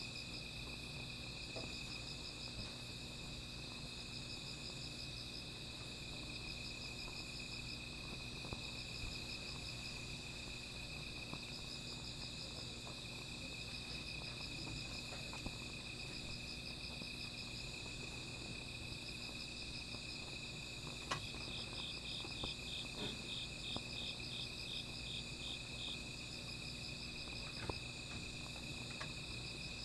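Night insects chirping together: one steady high trill, with another insect's pulsed trill repeating every couple of seconds. A third, lower pulsed trill joins for a few seconds past the middle, and there are a few faint clicks.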